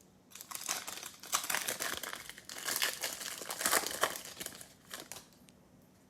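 Foil trading-card pack wrapper crinkling and tearing as it is handled and torn open, in a run of quick crackles that stops about five seconds in.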